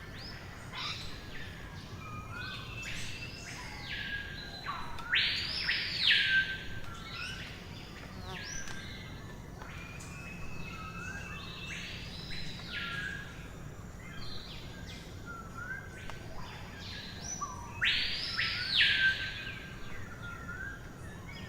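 Songbirds singing: several short chirping phrases, with a loud phrase of arching notes about a quarter of the way in and again near the end.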